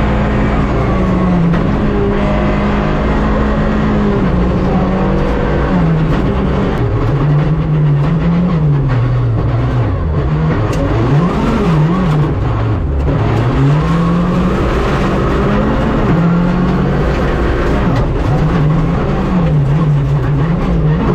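Rally car engine revving hard, its pitch rising and dropping over and over as it accelerates, shifts and slows through a stage.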